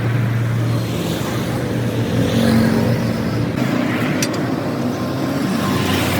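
Motor vehicle engine running with road traffic noise: a steady engine hum that drops back about a second in, leaving an even traffic rumble with a few faint clicks.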